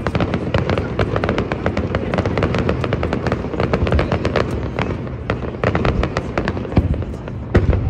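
Fireworks display: a dense run of rapid crackling pops and bangs that thins out somewhat after about five seconds, with a louder bang near the end.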